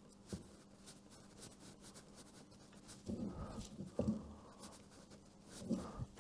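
Faint scraping and small clicks as a new oil filter is tightened with a wrench on a BMW R1100GS boxer engine, with short bursts of heavy breathing about halfway through and near the end.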